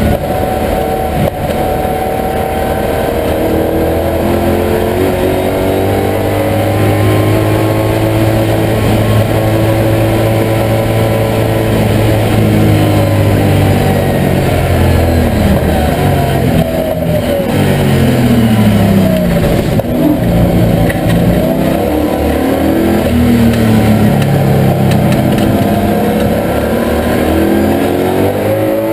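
TVR Tuscan V8 race car's V8 engine heard from inside the cockpit under racing load. Its note holds fairly steady for the first ten seconds or so, then falls and rises in steps through the middle as the gears change for a corner, and climbs again near the end.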